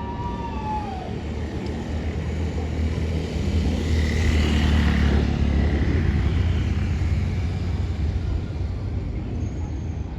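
Aircraft taking off at a distance: a low engine rumble that swells to its loudest about halfway through and then fades, with a faint whine near the peak.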